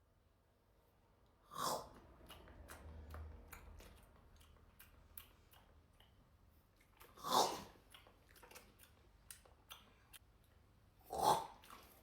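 An animal chewing and crunching food: many small crisp clicks, with three louder short noisy bursts about two, seven and eleven seconds in.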